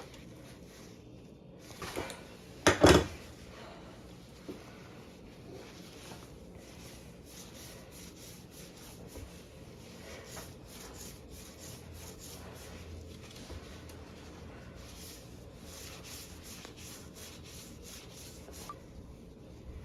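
Handling noise from close-up hand work: a loud rubbing scrape about two to three seconds in, then faint small clicks and rustles.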